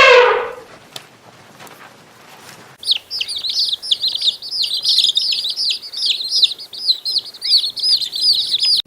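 A bird chirping, a rapid run of short, high chirps, several a second, that starts about three seconds in and goes on without a break.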